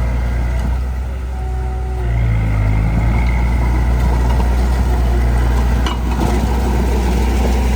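Heavy diesel engine of earthmoving machinery running steadily; it eases off briefly about a second in and picks up again about two seconds in. A short sharp click comes near the end.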